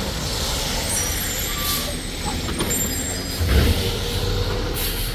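Automated side-loader garbage truck's diesel engine running with a steady low rumble, a short air-brake hiss about two seconds in, and the engine swelling louder about three and a half seconds in.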